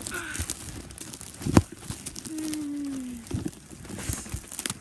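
Deep snow crunching and clothing rustling as someone struggles to climb out of a snowdrift, with a sharp thump about one and a half seconds in. Midway there is a short, low falling groan.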